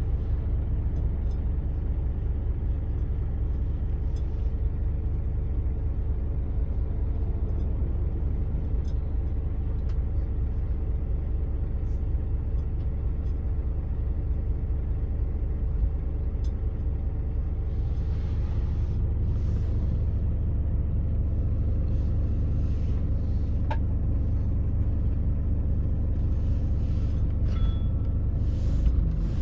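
Scania OmniExpress K450EB coach's six-cylinder diesel engine and road noise as it runs along, a steady low drone and rumble with a faint constant whine and a few light rattles and clicks.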